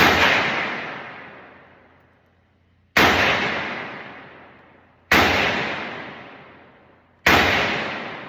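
Four rifle shots from an AR-15, fired singly with about two to three seconds between them, each ringing out and fading over about two seconds.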